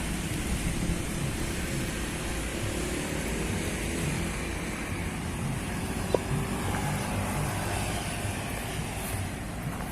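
Steady rumble of a motor vehicle on the move, with one short sharp click about six seconds in.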